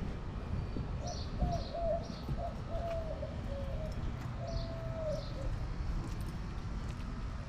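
A dove cooing, a run of low calls over about four seconds, with a small bird chirping high above it, over a steady low rumble.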